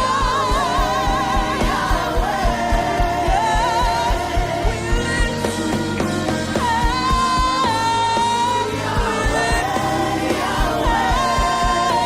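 Live gospel worship music: a singer holding long, wavering notes and sliding between them over a band with a steady drum beat.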